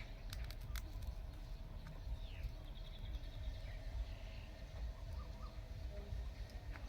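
Outdoor background with a few short bird chirps and a brief trill over a low rumble, with a few sharp clicks.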